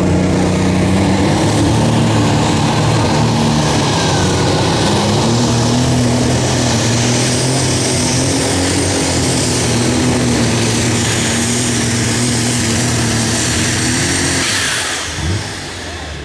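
Unlimited super stock pulling tractor's turbocharged diesel engine running loud and steady at full power under load, with a high whistle joining about halfway through. Near the end the engine sound drops away suddenly as the throttle comes off.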